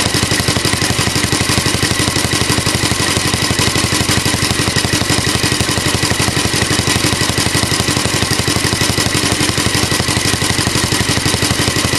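Alpha De Laval tank-cooled engine running steadily, belt-driving a Century generator, with a fast, even exhaust beat and a steady high whine alongside.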